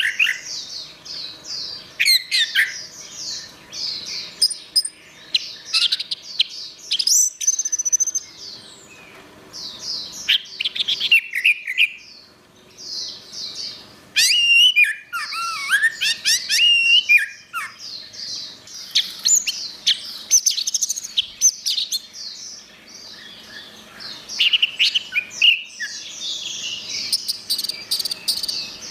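Orange-headed thrush singing: a varied, rapid run of chirps, trills and whistled phrases in bursts with short pauses between them.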